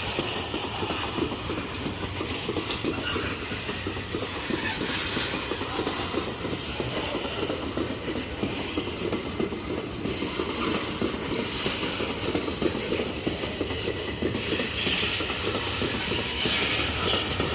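A heavy freight train rolling past steadily, its wheels rattling continuously on the track.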